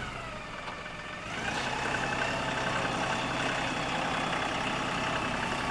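LS XR3135 compact tractor's diesel engine running; its revs rise about a second in and then hold steady.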